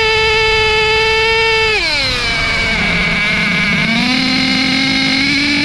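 HPI Savage X4.6 nitro monster truck's small two-stroke glow engine held at high revs with a high, steady whine. About two seconds in it drops sharply off throttle, then climbs slowly again as throttle comes back on.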